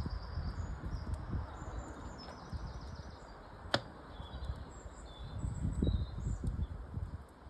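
Small birds chirping and twittering over a low, uneven rumble, with one sharp crackling pop from a wood fire about halfway through.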